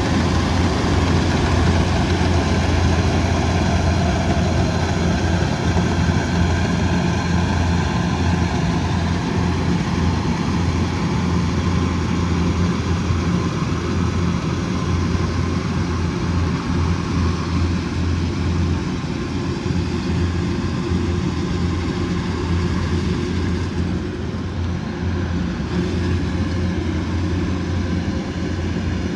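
Kubota DC108X rice combine harvester's diesel engine running steadily with a deep, even hum, easing off slightly about two-thirds of the way through.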